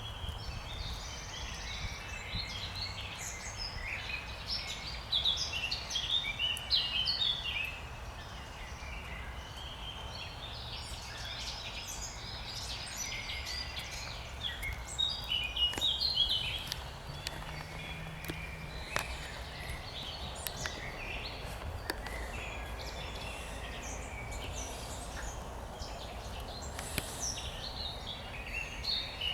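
Spring birdsong: songbirds singing short, quick phrases that come in bursts with brief lulls, over a low steady rumble.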